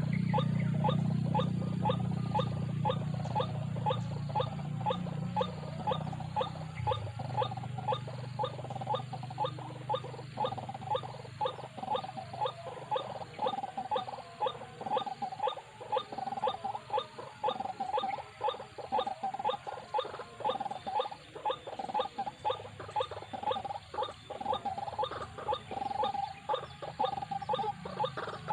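White-breasted waterhen calls, used as a decoy to lure waterhens, repeated over and over at about two a second. A low hum lies under the first several seconds and fades out.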